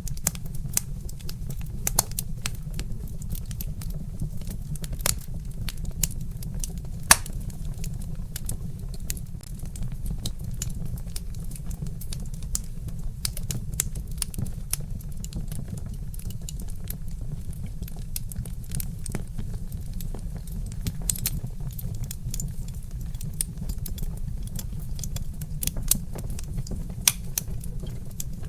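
Wood fire crackling: frequent irregular sharp pops and snaps from burning logs, with a few louder pops, over a steady low rumble of the fire.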